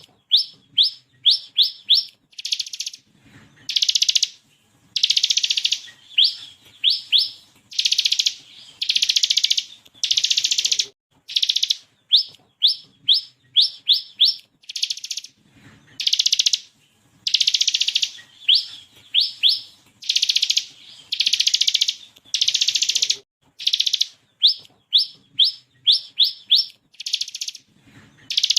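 Bar-winged prinia (ciblek kristal) singing: runs of four or five quick, high rising notes alternate with long dense rattling trills, the 'ngebren' burst, and the song repeats over and over.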